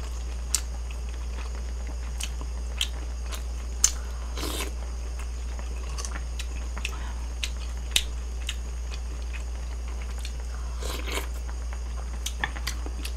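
Close-miked chewing and mouth sounds of someone eating lotus-leaf rice, with scattered sharp clicks and a couple of brief noisy rustles, over a steady low hum.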